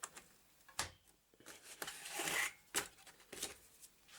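Hands handling computer parts on a workbench while setting up a motherboard with a diagnostic card: a few sharp clicks and knocks, with a short rustle about two seconds in.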